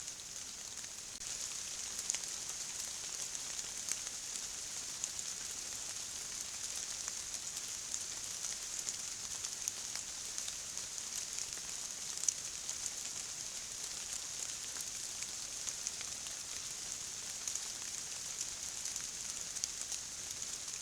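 Steady rain falling: a constant hiss with many small drop ticks, a little louder from about a second in.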